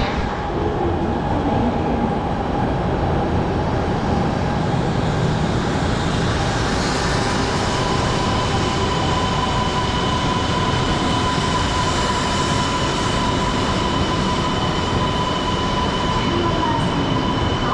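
Shinkansen train running: a loud, steady rumble of wheels and motors that holds for the whole stretch, joined about halfway through by a steady high whine.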